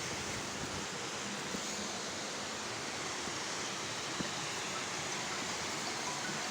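Steady rush of fast-flowing water, an even hiss without change.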